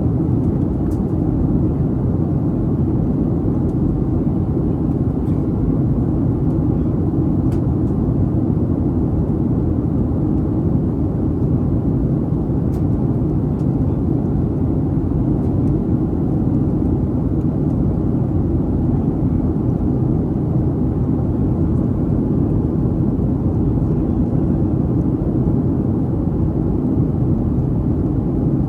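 Steady cabin noise inside a Boeing 737-800: a constant low rumble of its CFM56 jet engines and the air rushing past, with no change in pitch or level.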